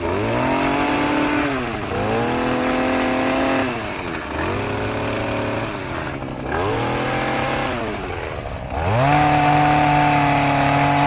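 Stihl KM94R kombi engine driving a hedge trimmer attachment, revved up and let back down about five times, its blades running to work WD-40 in between the cutter teeth. The last rev, about nine seconds in, is the longest and loudest.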